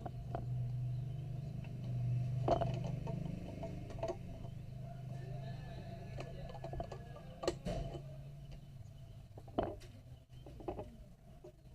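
Scattered light clicks and taps of hands working threads, a few seconds apart, over a steady low hum.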